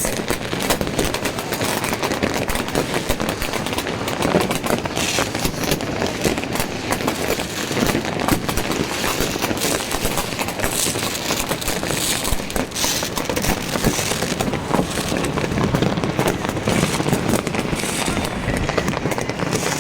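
Fireworks and firecrackers going off without a break: a dense, overlapping run of bangs and crackling.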